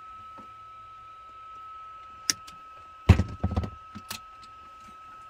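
Hand work on a truck's cab heater unit: a sharp click, then a quick cluster of knocks and clunks about three seconds in, and another click, over a steady high-pitched tone.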